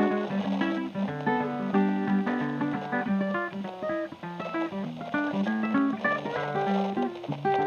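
Closing music played on acoustic guitar: quick, plucked notes in a lively run.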